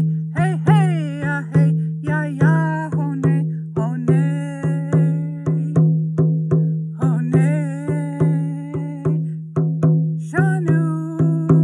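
A woman singing a Lakota song in vocables over a steady drumbeat, loud and soft strokes alternating in an even rhythm.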